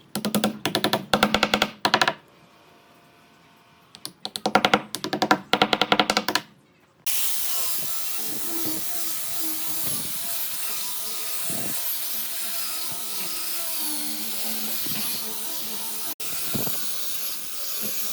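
A power tool runs in two short bursts with rapid clicking, then runs steadily with a strong hiss from about seven seconds in.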